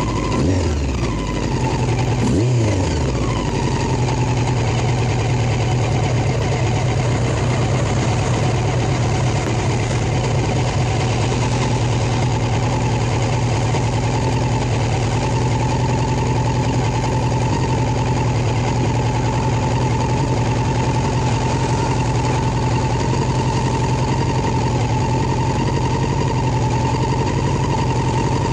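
Motorcycle engine winding down as it comes to a stop, revved briefly once about two and a half seconds in, then idling steadily.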